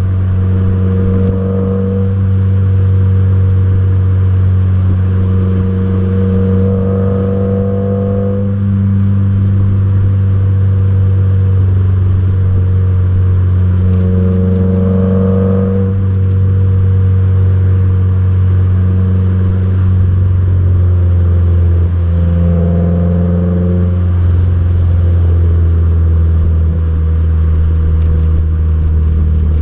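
2015 Subaru WRX's turbocharged flat-four engine and exhaust while driving on the road: a steady low drone, with the engine note rising and easing off a few times.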